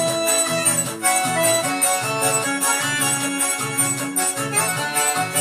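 Instrumental festa junina music played on an electronic keyboard, an accordion-like melody over a steady pulsing bass and percussion beat.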